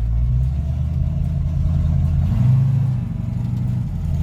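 Vehicle engine and exhaust running with a low, steady drone while driving, swelling briefly about two and a half seconds in.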